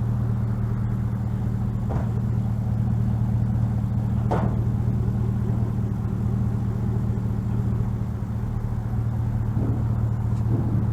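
A vehicle engine idling steadily with a low, even hum, with a couple of short clicks or knocks about two and four seconds in.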